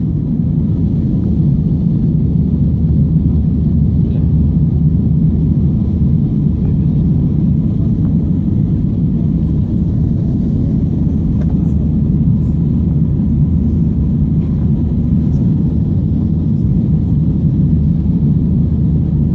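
Steady low rumble of jet engines and airflow heard inside the cabin of an Airbus A320-family airliner.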